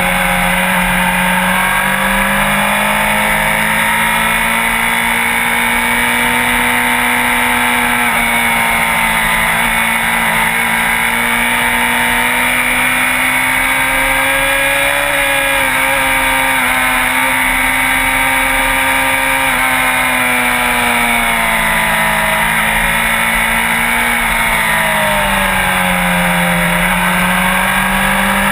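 Sport bike engine running at a steady cruise. Its pitch drifts slowly up and down with small throttle changes, with no hard revving or shifting.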